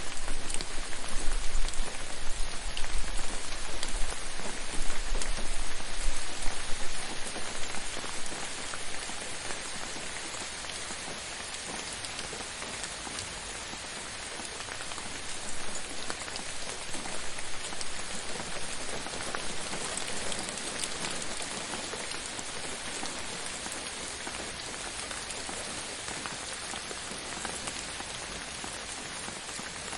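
Steady rain falling, a dense patter of drops on a surface. It is louder for the first several seconds, with a low rumble under it, then settles to an even, gentler patter.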